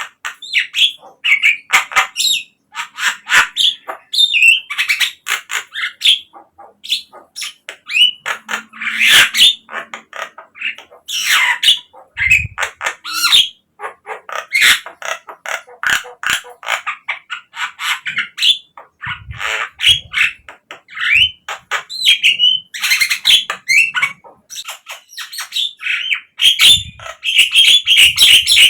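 Javan myna (jalak kebo) calling without pause: a rapid string of varied squawks, chattering notes and short gliding whistles, with a longer buzzy call near the end. It is the kind of lure song played to spur a kept myna into singing.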